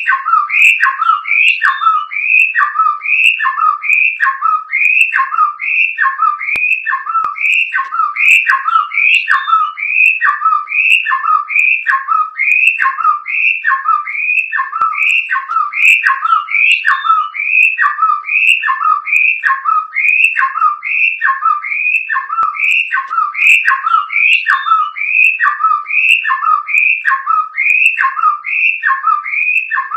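A murai songbird repeating one whistled two-note phrase over and over, a higher note dropping to a lower one, about one and a half phrases a second. It is the call heard as the name "Jokowi".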